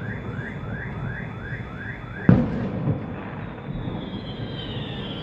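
A firework exploding with one loud bang a little over two seconds in. Before it comes a fast run of short rising chirps, about three a second; after it a high whistle glides slowly downward.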